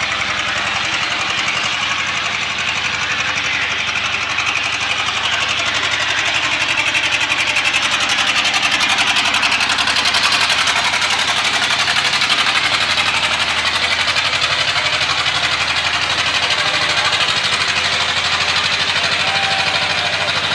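Farm tractor engine labouring under heavy load while pulling a sled, a loud, rapid, steady exhaust beat that grows a little louder partway through.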